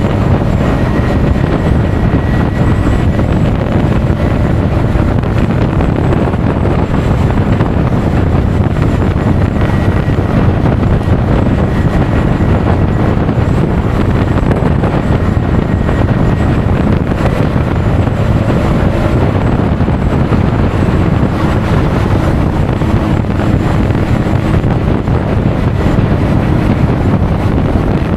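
Steady wind rushing and buffeting over an action camera's microphone while riding a Honda Forza 350 scooter at speed, with road noise beneath.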